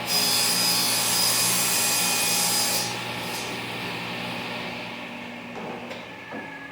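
Scraping, rubbing noise at a table saw for nearly three seconds, starting and stopping abruptly, over a steady low hum.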